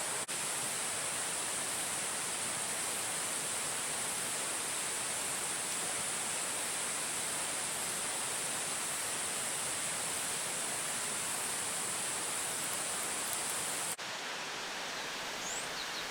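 Steady rushing of flowing river water, with a high, even hiss over it that cuts off suddenly about fourteen seconds in.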